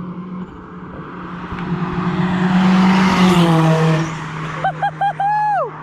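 A motor vehicle passes close by: its engine tone and road noise swell, and the pitch drops as it goes past. Near the end come four short high tones and a longer one that falls away before cutting off.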